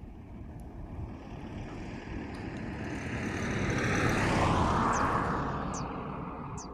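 A motor vehicle passing by: its engine and rushing noise grow louder to a peak about four and a half seconds in, then fade away.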